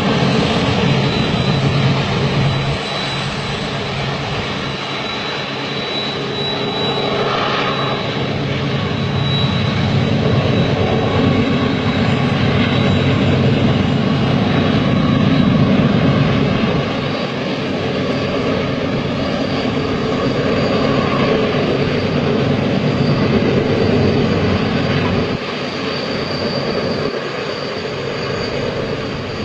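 Container freight train running with a steady rumble.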